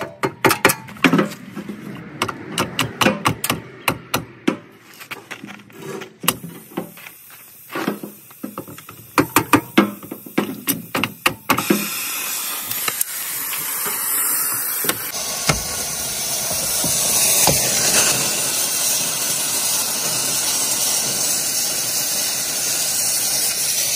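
Irregular knocks, clanks and clicks of hand work with tools on the truck, then a steady hiss that rises about halfway through and holds.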